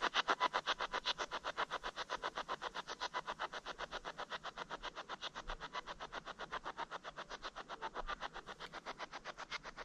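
Spirit box (S-Box) sweeping the AM radio band: rapid chopped bursts of radio static, about seven a second, as the receiver hops from station to station.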